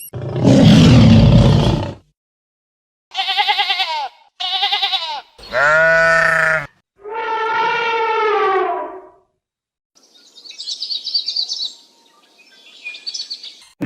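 A string of separate animal calls cut together. A rough, noisy call lasts about two seconds. Four wavering bleats follow, the last one falling in pitch, and high chirping from a small bird comes near the end.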